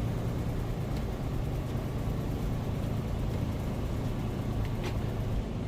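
Semi truck's engine and tyre noise heard inside the cab: a steady low drone, with a faint tick about five seconds in.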